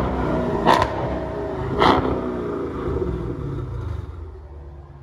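Muffler-deleted Dodge Challenger's 392 (6.4 L) HEMI V8, running with only its resonators left in the exhaust, settling after a rev. Two sharp blips come about a second apart, then it drops back to a lower, steady running sound near the end.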